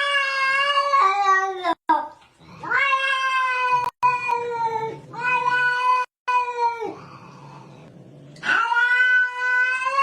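Domestic cat yowling in long, drawn-out meows: three calls, the first about two seconds long, the second a held call of about four seconds, and a third starting near the end.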